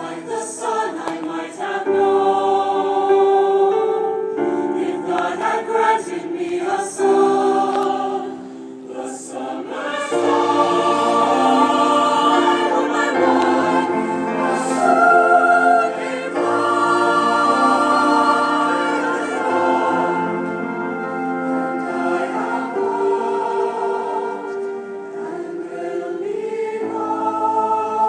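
Choir singing in harmony, holding chords that change every second or two.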